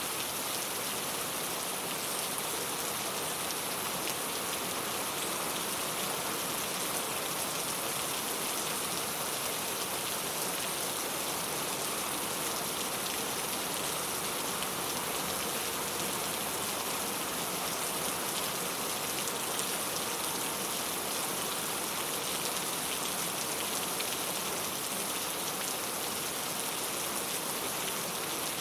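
Steady rain falling on a clay-tile roof, an even, dense patter of drops that holds at the same strength throughout.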